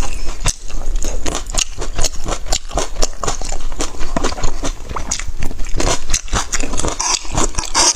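Close-up eating sounds: a person chewing and smacking food with many quick, irregular wet clicks and crackles.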